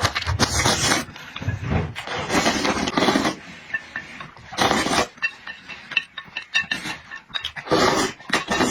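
Loud close-up eating: chewing and wet mouth noises coming in irregular bursts about a second apart.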